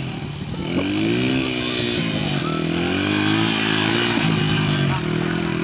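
Small 80cc dirt bike engine revving up and down as it is ridden, its pitch rising and falling several times.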